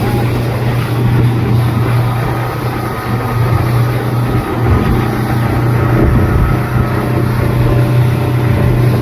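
Speedboat engine running steadily at speed, a constant low hum under a wash of noise.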